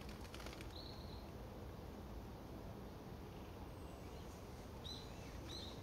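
Three short, high bird call notes, one about a second in and two close together near the end, over a steady low outdoor background rumble.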